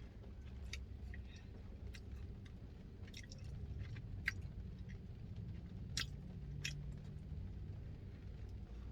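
A person chewing and eating a spoonful of pecan pie Blizzard close to the microphone, with scattered wet mouth clicks, over a low steady hum.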